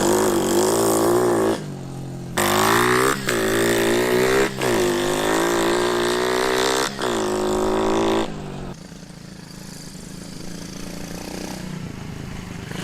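Pit bike's single-cylinder four-stroke engine revved in several throttle blips, each rising and falling in pitch, then settling to a quieter steady idle about nine seconds in. It is running on a freshly fitted carburettor with the needle clip moved down, which cured a bog at about quarter throttle, and it now idles.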